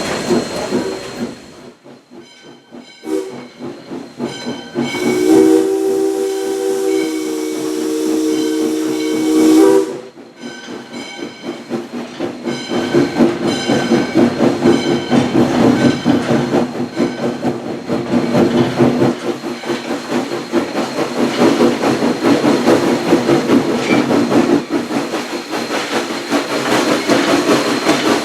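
Steam locomotive whistle: a short toot, then one long steady chord-toned blast that cuts off suddenly. After that the locomotive works with hissing steam and a regular pulsing exhaust beat.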